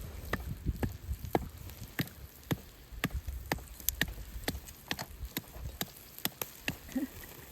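Crackling and popping over a wood-fire barbecue grill: sharp, irregular pops, about two or three a second, from the burning wood and the grilling meat.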